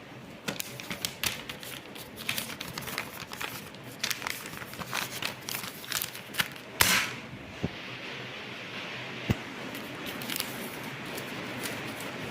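Steady rush of air from a Sogo SG-5603 industrial ceiling fan running, broken over the first seven seconds by a string of irregular clicks and crackles, the loudest about seven seconds in. After that the air rush goes on a little louder.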